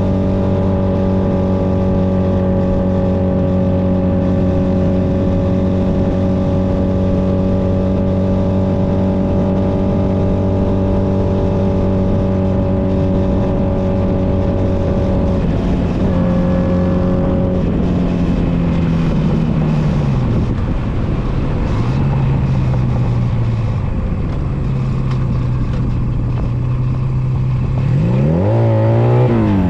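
Honda Nighthawk 250's air-cooled parallel-twin engine running at steady revs for about the first half, then the revs drop and settle low, with one quick rise and fall of the revs near the end.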